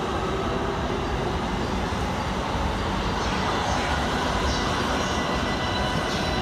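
A Keikyu 600 series train pulling out of the station: a steady running rumble, with a few faint rising motor whines midway.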